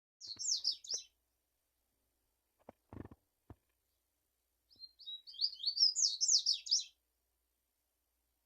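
Double-collared seedeater (coleiro) singing: a short burst of quick, high down-slurred notes, then after a pause a longer phrase of about two seconds of rapid notes. A few faint low knocks come in the gap between the two phrases.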